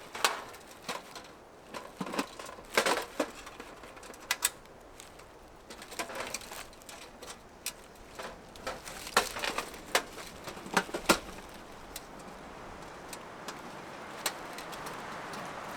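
Irregular clicks and knocks, a dozen or so sharp ones scattered at uneven intervals over a faint hiss, like gear being handled.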